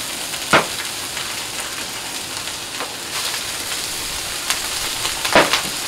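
Food sizzling steadily on a hot Blackstone flat-top griddle: pork chops, diced Spam, red bell pepper and onion frying in oil. Two sharp knocks, about half a second in and near the end.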